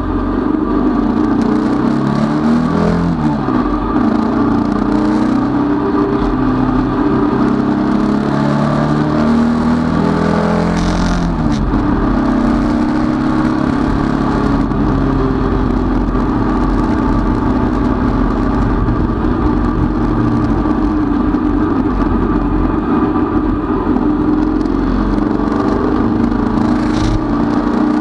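Datsun 510 race car's four-cylinder engine heard from inside the cockpit, running hard under acceleration. The revs climb and drop with gear changes, notably about three seconds in and again around eleven seconds in.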